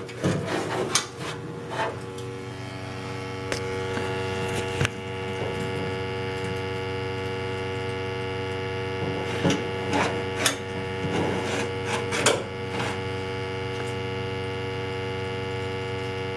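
Steady electrical hum as a 1994 Lochinvar copper-fin boiler starts up, settling in about four seconds in, with scattered clicks and knocks over it.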